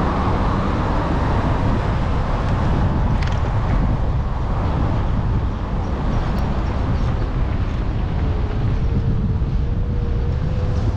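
Wind buffeting the microphone with road noise on a moving e-bike; a faint steady whine comes in about eight seconds in.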